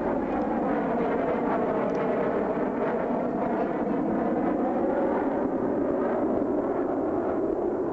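F-117A Nighthawk jet flying past, its engines making a steady rushing roar.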